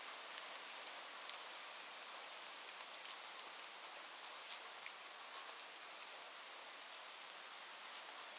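Steady rainfall: an even hiss of rain with scattered sharp ticks of single drops.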